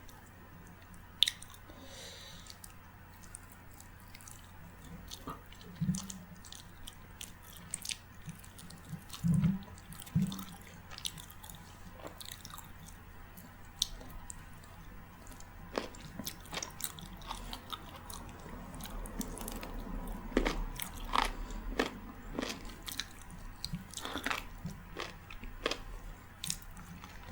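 Close-miked chewing and wet mouth sounds of a person eating a meal of rice, daal and curry: many short smacks and clicks, a few low thuds in the first half, busier in the second half.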